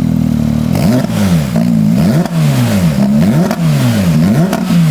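Porsche 992 GT3 RS's naturally aspirated flat-six revving through a JCR titanium valved race pipe exhaust with megaphone tips, blipped several times so the pitch climbs and falls back in quick succession.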